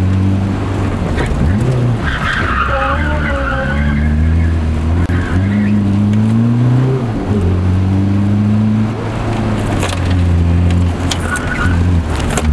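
VW Rabbit's turbodiesel four-cylinder engine running hard under acceleration, its pitch climbing and then dropping as it changes gear, with tires squealing briefly a couple of seconds in.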